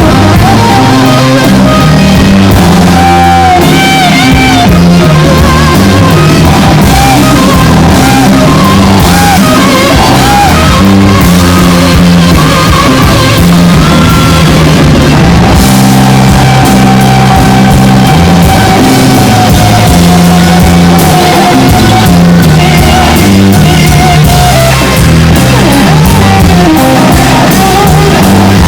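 Live rock band playing loudly: electric guitar, bass and drum kit keep a steady beat, with a long held, wavering note through the middle.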